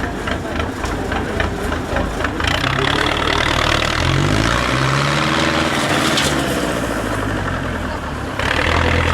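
IFA W 50 trial truck's diesel engine revving under load: the pitch rises about four seconds in, holds, and drops back near seven seconds, with a loud rushing noise over it while the revs are high.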